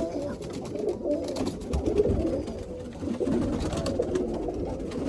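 Domestic pigeons cooing, many overlapping low calls at once, with scattered light clicks.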